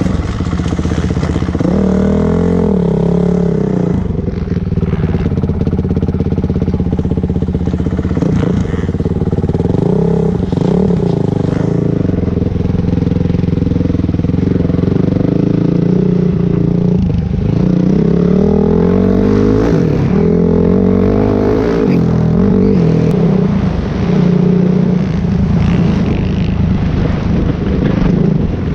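Dirt bike engine running loudly as it is ridden, its pitch rising and falling again and again as the rider works the throttle and gears.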